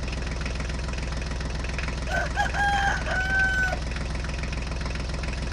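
A small engine idling with a steady, fast chug, and a rooster crowing over it about two seconds in: a couple of short notes, then one longer held note.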